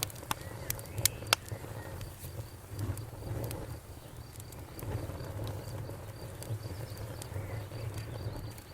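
Bonfire crackling over a low steady rumble, with a few sharp pops in the first second and a half, while crickets chirp steadily at about three chirps a second.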